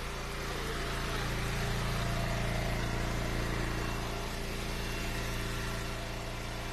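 An engine idling steadily, swelling slightly about two seconds in.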